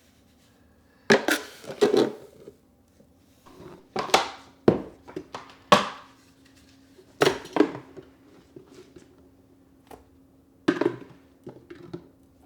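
Household objects being handled: a series of irregular clunks and clatters as things are picked up and set down, with a faint steady hum underneath.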